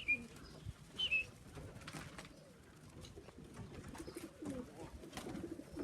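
Loft pigeons cooing in low, wavering calls, strongest in the second half, with two short high chirps near the start.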